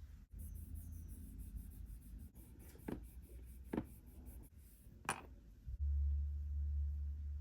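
Light scratching and rubbing as small miniature pieces are handled, with three sharp little clicks, over a low hum that swells louder past the middle.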